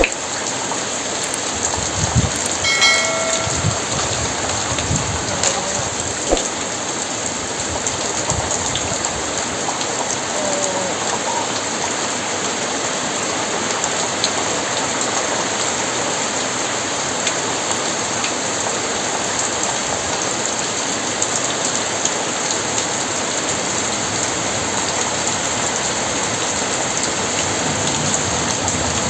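Heavy rain falling steadily, with a few sharper drips or knocks in the first several seconds and a brief high-pitched sound about three seconds in.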